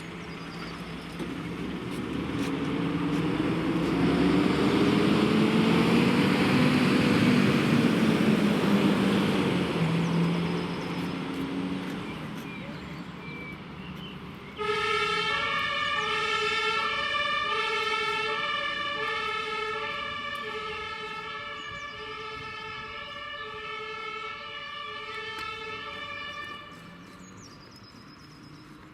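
Fire engine (turntable ladder truck) pulling out. Its engine speeds up with a rising pitch and passes close by, and the sound fades. About halfway in, the German two-tone siren (Martinshorn) comes on, alternating steadily between a high and a low note. It grows fainter as the truck drives off, then cuts off near the end.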